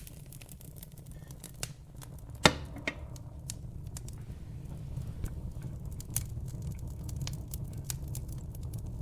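Wood fire in a fireplace crackling over a low rumble of flame, with scattered sharp pops and snaps and one loud pop about two and a half seconds in.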